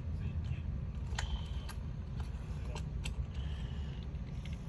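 A few light clicks and taps of small model-kit pieces being handled, over a steady low rumble.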